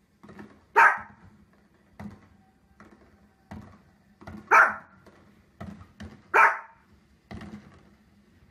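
Small fluffy dog barking sharply, three loud barks spread across a few seconds, with fainter short sharp sounds in between.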